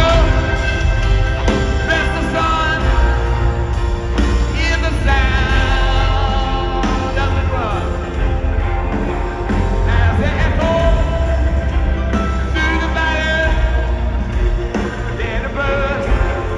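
Live rock band in a stadium playing a slow song, with sung vocal lines over strong bass, drums and guitar.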